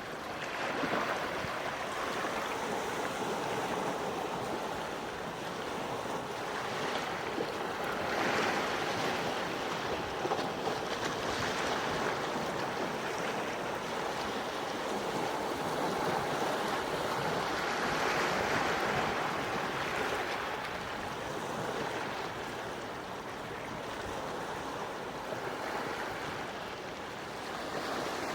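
Gentle sea waves washing on the shore, the surf swelling and easing slowly, with about three larger waves breaking.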